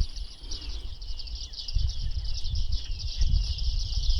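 A flock of bearded reedlings (Panurus biarmicus) calling, a dense run of quick short chirps without a break. A low rumble comes and goes underneath, stronger from about two seconds in.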